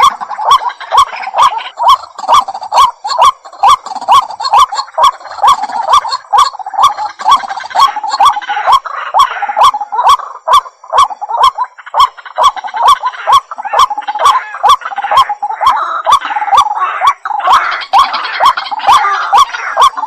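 White-breasted waterhen calling: a loud, steady string of short, harsh notes repeated about two to three times a second. The notes grow fuller and overlap more in the second half.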